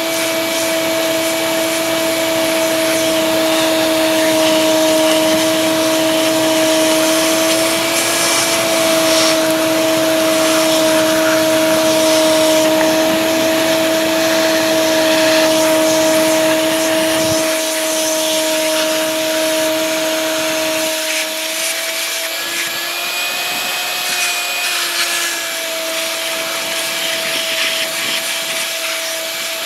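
Shop vac running with a steady whine over a rushing hiss as it sucks wet soil and debris from around buried sprinkler pipes. Its pitch rises slightly about two-thirds of the way through, then settles back.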